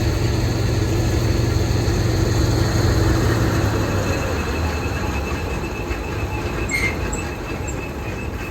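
Mahindra Arjun Novo 605 DI tractor driving a Gahir Nippy 45 mini combine harvester attachment: a steady, loud machine clatter with a high whine, which cuts off suddenly at the end.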